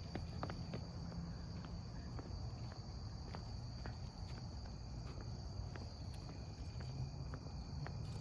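Insects trilling steadily in a high, thin tone, with scattered soft footsteps through grass and a low rumble underneath.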